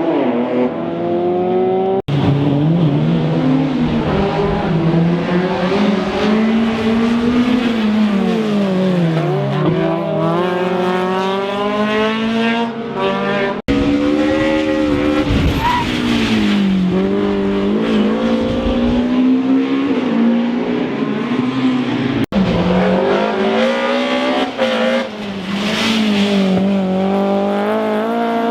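Rally car engines revving hard, the pitch climbing and dropping again and again through gear changes and braking. The sound breaks off abruptly three times where separate clips are joined.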